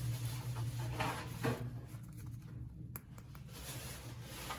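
Faint rubbing and scratching of handled objects, with one sharp click about three seconds in, over a low steady hum.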